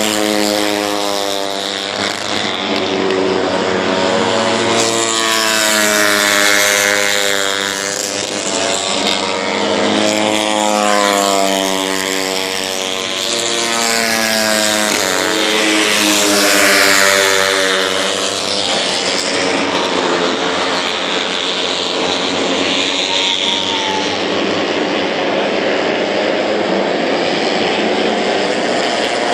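Racing motorcycles passing one after another at speed, their engines rising and then falling in pitch as each goes by, several times in the first two thirds; after that a steadier engine noise without clear passes.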